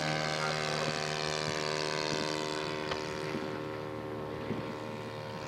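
Radio-controlled scale model airplane's engine running steadily at an even pitch, slowly fading.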